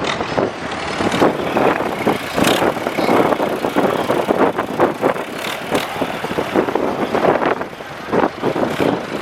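Heavy diesel vehicles running, tractors and lorries, with a dense, uneven noise broken by many short knocks and rattles.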